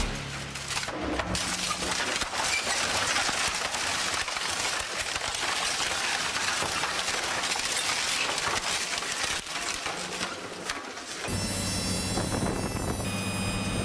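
Heavy forestry machinery breaking up wood: a dense crackling, splintering noise. About eleven seconds in it gives way to a machine engine's steady hum with a high whine.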